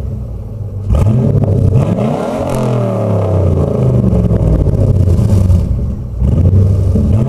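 Chevrolet Camaro Z28 V8 exhaust as the engine is revved: about a second in, the pitch climbs, then falls back and settles. It is blipped up again just after six seconds.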